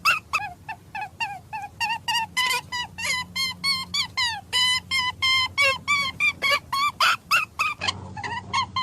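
A flock of birds calling: short, pitched honk-like calls, several a second, overlapping without a break.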